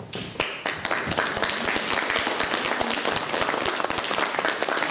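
Audience applauding, many hands clapping together, starting a moment in.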